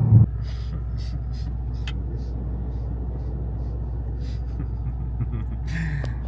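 Mercedes-AMG C63 S twin-turbo V8 heard from inside the cabin. Its louder engine note drops off abruptly about a quarter second in, and the engine then idles with a steady low hum, with a few light clicks.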